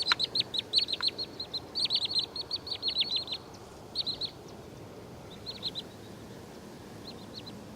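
Wood sandpiper calling: rapid runs of short, sharp, downslurred notes, the bird's alarm call. The calls come thickly for the first three and a half seconds, then in a few shorter groups, over a faint steady hiss.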